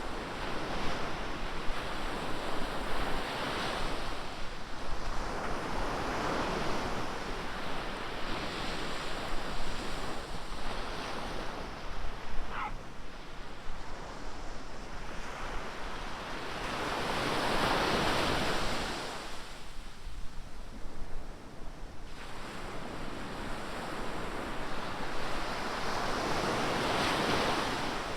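Ocean surf: waves breaking and washing up the beach in repeated swells, with wind noise on the microphone.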